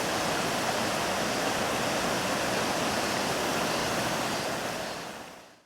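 Steady rushing of a flowing river, fading out about five seconds in.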